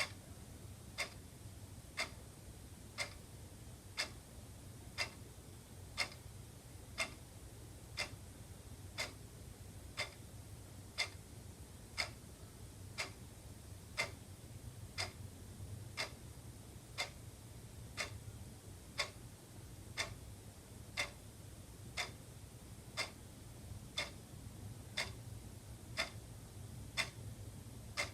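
Wall clock ticking steadily, one sharp tick each second, over a faint low hum.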